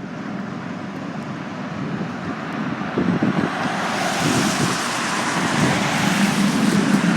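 Fire engine's engine and road noise, growing steadily louder, with a rougher, brighter sound from about three seconds in.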